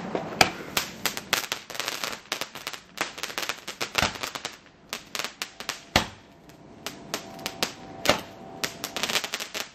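Fireworks going off: dense, irregular crackling and popping, with a few sharper bangs about 4, 6 and 8 seconds in.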